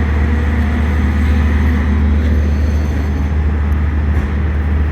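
Diesel-electric locomotive (GEU40) running with a steady deep engine hum as the train comes to a halt.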